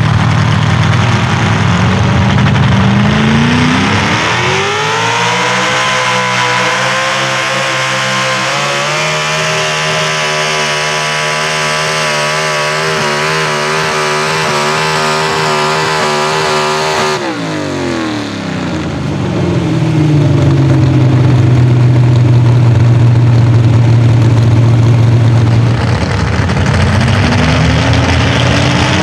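Pro Stock four-wheel-drive pulling truck's engine revving up and held at high revs under load, its pitch wavering, for about twelve seconds. The throttle then cuts sharply and the engine falls back to a steady idle, rising briefly again near the end.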